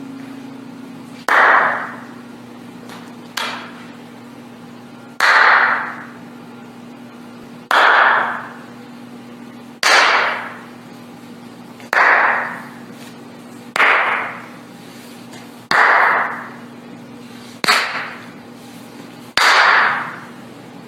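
Single hand claps, one about every two seconds, each sharp and followed by a fading echo of about a second.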